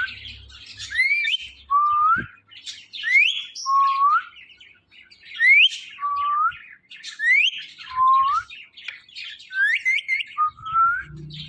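Ring-necked parrot whistling a two-part call over and over: a high rising note, then a lower rising note, repeated about every two seconds.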